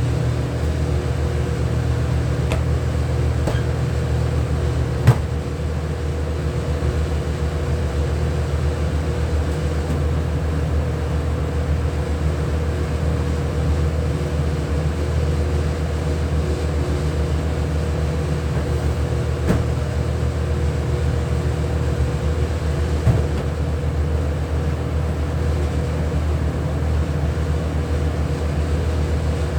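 Steady mechanical hum from running machinery, with a few sharp clicks, the loudest about five seconds in.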